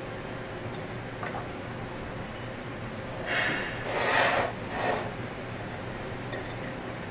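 Three short scraping rubs from hand work on scroll pump parts about three to five seconds in, the middle one loudest, with a few faint clicks, over a steady low hum.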